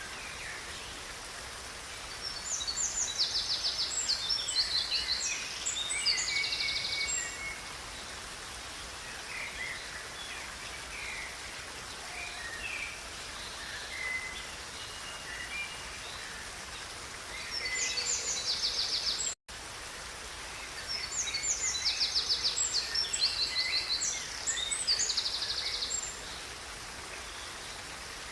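Steady rushing of a river with songbirds singing over it: two long spells of fast, high trilled song and scattered shorter chirps in between. The sound drops out for a split second about two-thirds of the way through.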